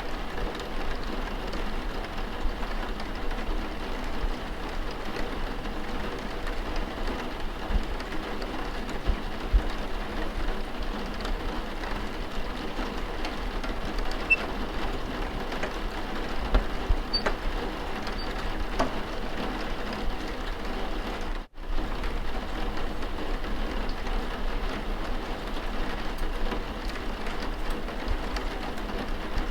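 Steady rain on a surface, with a few faint clicks over it. The sound cuts out for an instant about two-thirds of the way through.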